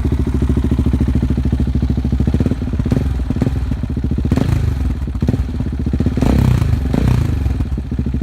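KTM 690 Duke's single-cylinder engine through an Arrow aftermarket exhaust, idling with a lumpy beat, then blipped in several quick revs, the longest about six seconds in, before dropping back to idle near the end.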